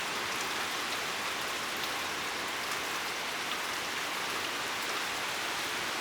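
Steady rain falling, with scattered light drop ticks over an even hiss.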